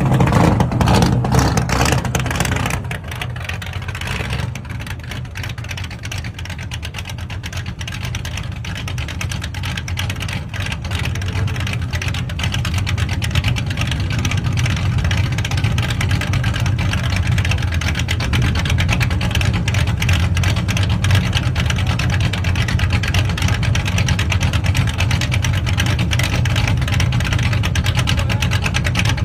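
454 big-block V8 crate engine running. It is louder and higher for the first two and a half seconds, then settles to a lower, steady idle that grows gradually louder from about twelve seconds in.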